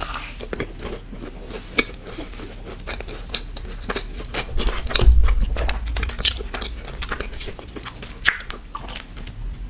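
Close-miked biting and chewing of a Crumbl cookie: many small, sharp crunches and wet mouth clicks throughout, with a low rumble about halfway through.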